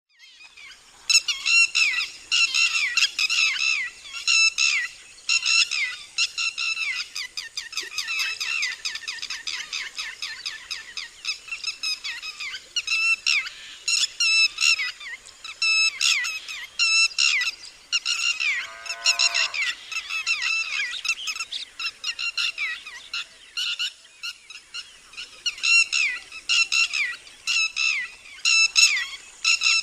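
Red-wattled lapwing giving its loud alarm call: sharp, high notes repeated in quick bursts of several at a time, sometimes running together. About two-thirds of the way through, one call slides steeply down in pitch.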